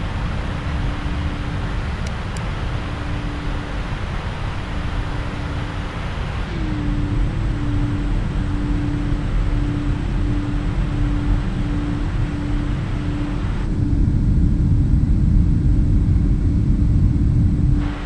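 Steady rumble of jet engines and rushing air inside the cabin of a Boeing 777-300ER climbing after takeoff, with a steady low hum under it. The rumble grows heavier and louder about two-thirds of the way through.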